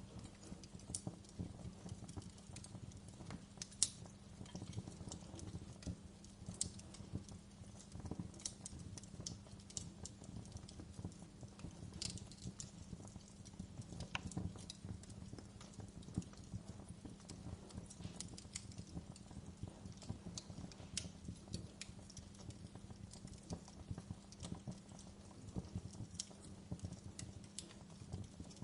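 Wood log fire in a fireplace crackling, with irregular snaps and pops, a sharper pop about four seconds in, over a faint steady low hum.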